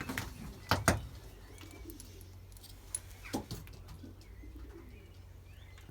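Racing pigeons cooing softly, with a couple of sharp clicks about a second in.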